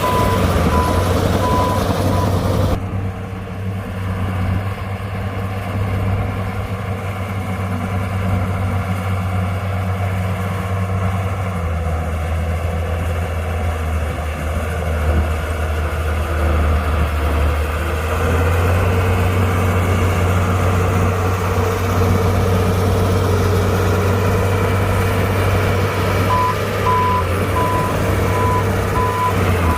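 Heavy diesel engines of a bulldozer and dump truck running steadily, with a back-up alarm beeping repeatedly in the first couple of seconds and again near the end, the signal of a machine reversing. About three seconds in the engine noise drops abruptly, then builds again.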